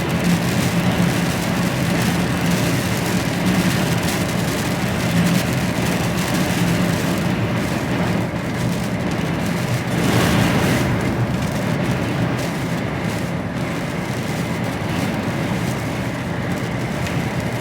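HGV lorry running steadily at motorway speed, heard from the cab: a low diesel engine drone under constant road and wind noise, with a brief surge of noise about ten seconds in.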